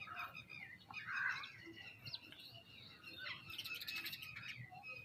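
Several birds chirping and calling at once, a busy run of short chirps and whistled notes, with a louder burst about a second in.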